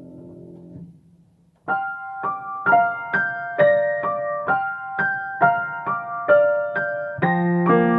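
Piano duet, four hands: a held chord fades out, a short pause follows about a second in, then a new tune starts as a line of evenly paced single notes in the upper range, with low chords coming in under it near the end.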